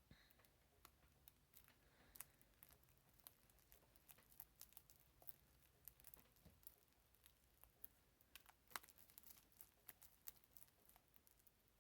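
Faint, scattered sticky clicks and crackles of clear-glue slime being stretched and squeezed in the hands; the slime is still tacky, not yet fully activated.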